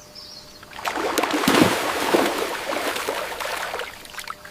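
Water splashing and sloshing in irregular churning bursts that start about a second in and fade near the end.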